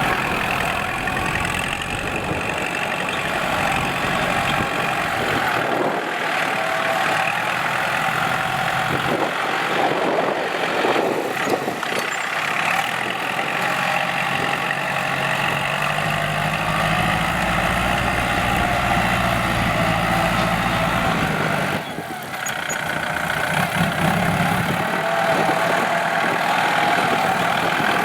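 Kubota L4708SP tractor's diesel engine running steadily under ploughing load, with a brief drop in level about three-quarters of the way through.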